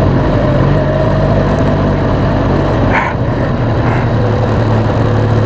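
Motorcycle engine running steadily at low speed, with a steady low hum, and a brief higher-pitched sound about three seconds in.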